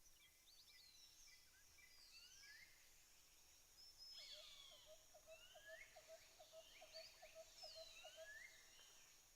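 Faint forest birdsong: several birds calling with short whistles and sweeping notes. From about four seconds in, a fast, even run of short lower notes, roughly three or four a second, joins them.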